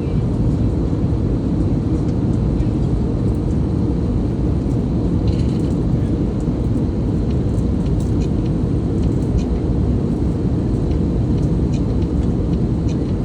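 Steady low roar of an airliner cabin in flight, the engine and airflow noise holding an even level, with a few faint ticks over it.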